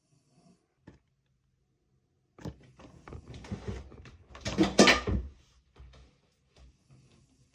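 Handling noise from a plastic model kit build: a single click, then a flurry of small clicks and knocks of parts and tools on a work surface, loudest about two thirds of the way through, tapering to a few faint ticks.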